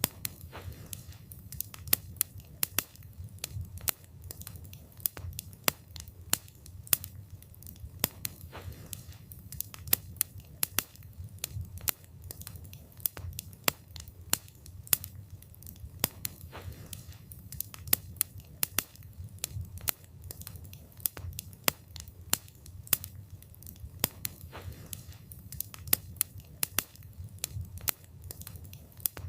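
Wood fire burning, with frequent sharp crackles and pops of the wood at irregular intervals over a low, steady rumble of the flames.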